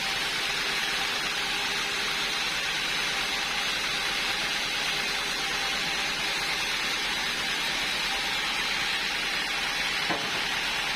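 Steady hissing noise with a faint hum under it, and a single short click near the end.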